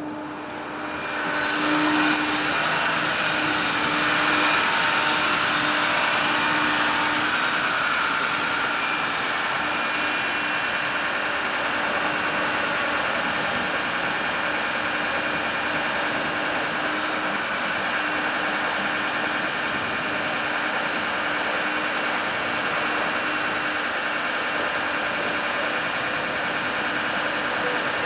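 Bucket truck's engine and hydraulic system running while the Altec AT37G boom is operated from the bucket, with a steady hiss and a constant hum. It grows louder about two seconds in, then holds steady.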